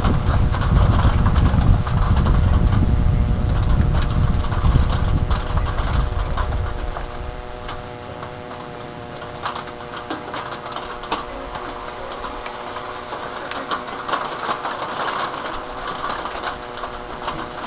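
Rain and hail ticking and pattering in a dense, irregular rattle of sharp clicks. A deep rumble dominates the first six or seven seconds, then fades away. A steady hum runs underneath throughout.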